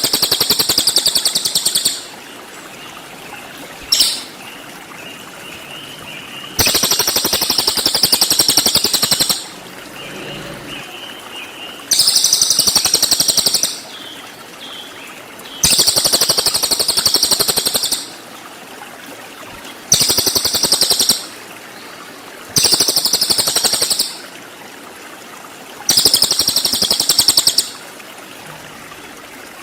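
A cililin bird's rapid, very high trills, the stuttering 'tembakan' phrases, coming in about eight bursts of one to three seconds each. A steady rush of running water goes on underneath.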